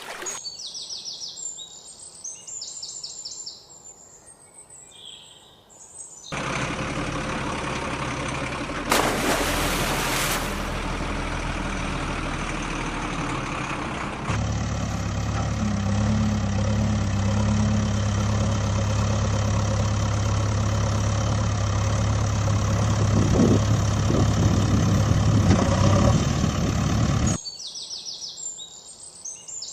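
Vehicle engine running for about twenty seconds, starting abruptly some six seconds in and changing suddenly to a steadier, deeper hum about halfway, then cutting off. Birds chirp before and after the engine.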